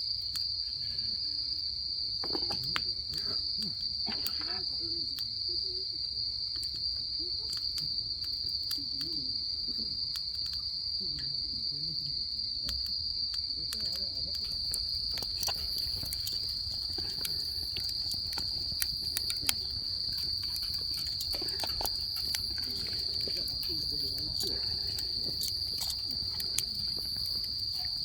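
Insects trilling, one steady high-pitched tone that never lets up, with scattered faint clicks.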